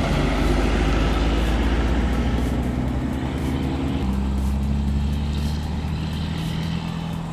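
Heavy truck engine running hard. Its pitch steps to a new level about four seconds in, as with a change in revs or gear.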